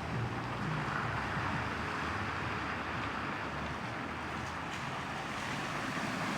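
Car driving through deep floodwater on a road: a steady wash and rush of water around it, with a faint low engine hum.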